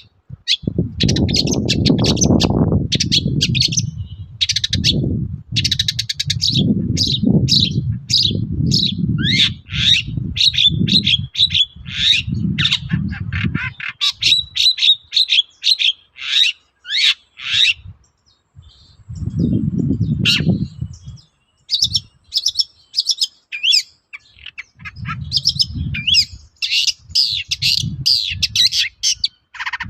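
Long-tailed shrike singing hard: fast chattering runs of high chirps and quick down-slurred whistles, easing off past the middle and picking up again near the end. Bursts of low rumbling noise sit under much of the song.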